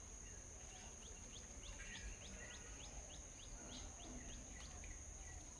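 A small songbird giving a rapid series of short, high chirps, about three a second, over a steady high-pitched whine.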